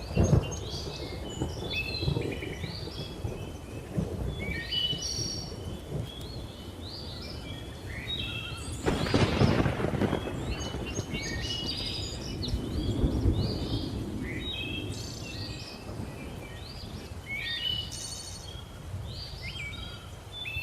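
Thunder rumbling over many birds chirping and calling, with a louder thunderclap about nine seconds in.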